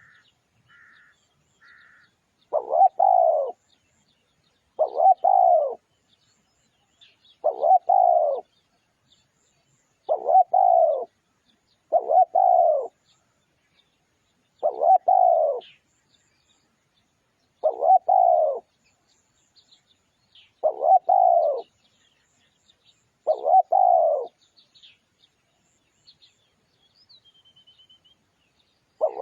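Spotted dove cooing: a phrase of about a second repeated every two to three seconds, with faint high chirps of small birds between the phrases.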